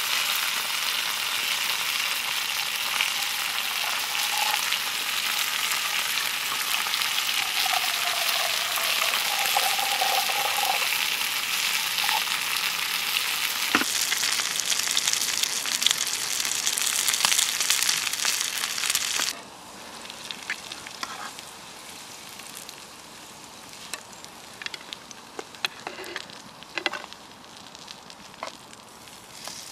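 Chips and flour-dusted skate frying in oil in pans over a campfire: a loud, steady sizzle. About two-thirds of the way through it drops suddenly to a quieter sizzle with scattered pops and crackles.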